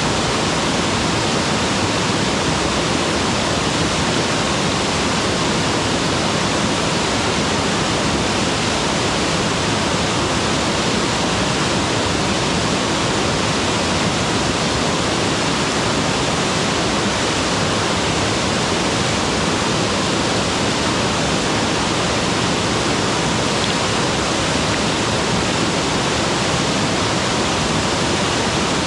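Mountain waterfall: water pouring and splashing in a steady, unbroken rush, full and even across the range.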